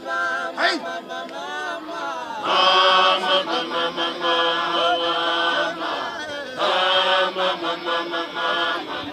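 A cappella group of voices singing in harmony: short phrases at first, then two long held chords.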